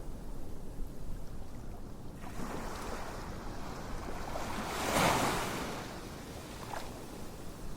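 Ocean waves on a shore: a steady surf hiss, with one wave swelling from about two seconds in, breaking loudest about five seconds in, then washing back.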